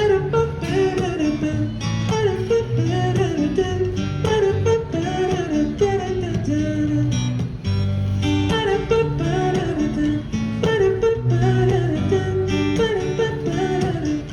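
Live guitar music in a pop song's instrumental stretch: a melody line moving over held bass notes.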